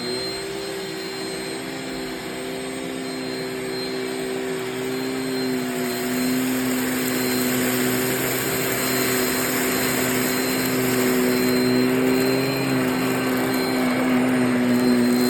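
Shark Rocket stick vacuum running at full speed on a pickup test: a steady motor whine over rushing air that grows somewhat louder as it goes.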